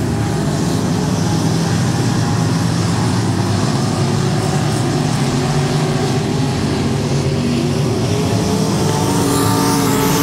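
Dirt-track race car engines running at speed on the oval, a steady loud drone whose pitch shifts as cars go by, more noticeably near the end.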